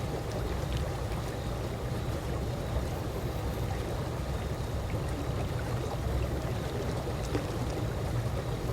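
Calm swimming-pool water lapping gently: a steady low wash with faint small splashes.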